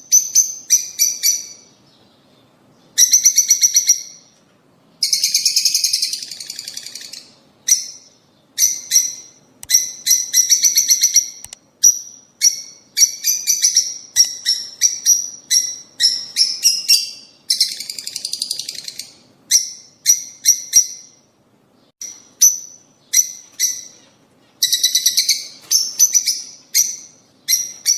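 Peach-faced and Fischer's lovebirds chirping: rapid runs of sharp, high chirps at several per second, broken by short pauses.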